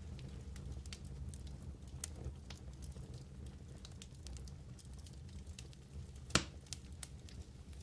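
Wood fire burning in a fireplace, with a low steady rumble and frequent small crackles and pops. One louder, sharp pop comes about six and a half seconds in.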